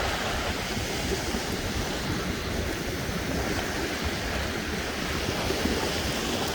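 Ocean surf washing steadily, with wind buffeting the microphone in low rumbling gusts.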